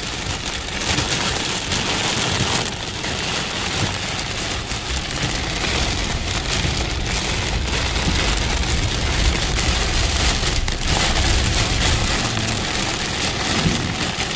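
Heavy rain pouring down in a steady hiss, over a low rumble that is strongest in the middle stretch.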